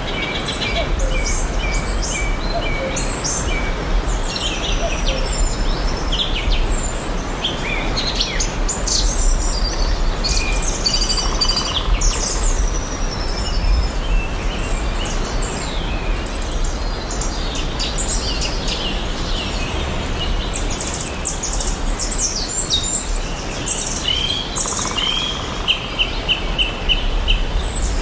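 Several wild birds chirping and singing over a steady background hiss, with a run of about six quick repeated notes near the end.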